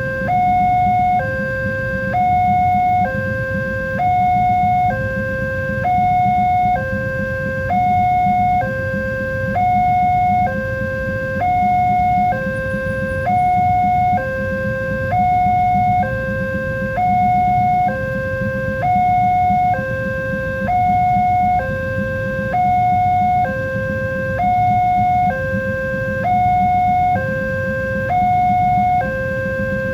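Railway level-crossing warning alarm: an electronic two-tone signal switching between a higher and a lower tone about once a second, over a steady low rumble.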